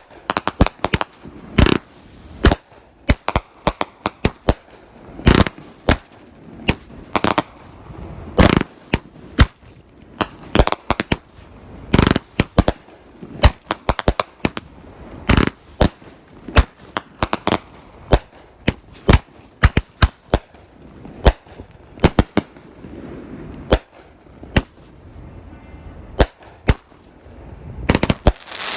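Consumer firework cakes going off, three at once: a rapid, irregular string of sharp bangs and pops, several a second, growing denser and louder near the end.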